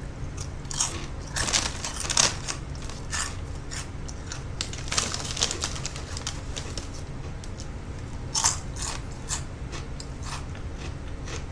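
Crunchy Cheetos being chewed: a dense, irregular crunching and crackling in the mouth, with a louder crackle about eight seconds in, when the chip bag is reached into again.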